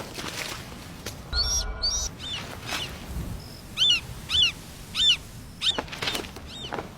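A bird of prey giving a string of sharp, high, repeated calls, about five in quick succession in the second half. A short rushing noise comes about a second and a half in.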